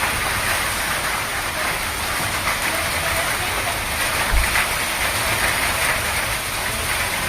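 Heavy rain pouring steadily onto surfaces, an even hiss of water. A brief low thump comes about four seconds in.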